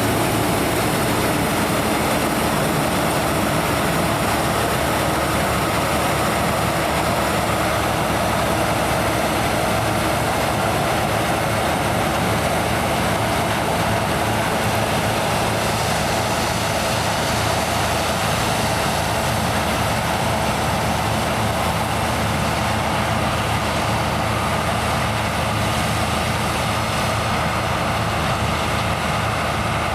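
Heavy farm machinery running steadily during a corn harvest: a constant engine drone with a few steady whining tones over it, no changes in speed.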